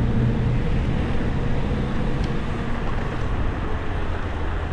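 Steady traffic and road noise with a low rumble while riding an e-bike on a city street; a vehicle's engine hum fades out just after the start.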